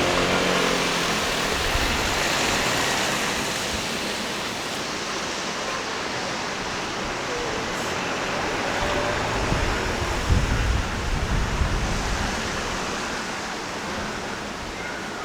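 Steady wash of city road traffic noise from passing cars, with an uneven low rumble near the middle.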